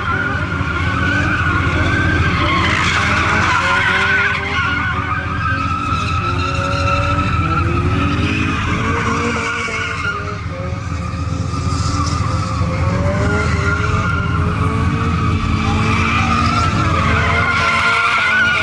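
Pickup truck doing a burnout: tyres squealing continuously over the engine held at high revs, its pitch climbing and falling as the throttle is worked, easing off briefly about halfway through.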